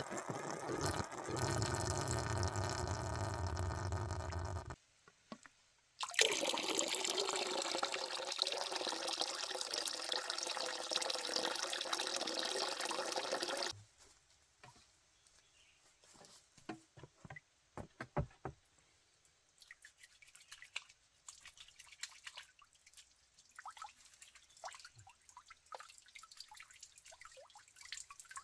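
Water running or pouring in two stretches, stopping briefly about five seconds in and cutting off around fourteen seconds in, followed by scattered drips.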